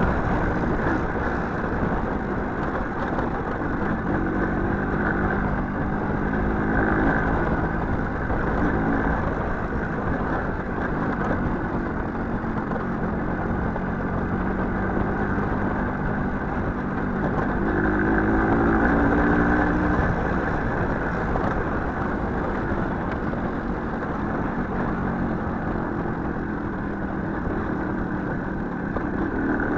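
Small motorcycle engine running while the bike is ridden, its pitch rising and falling as it speeds up and eases off, most clearly about a third of the way in and again past the middle.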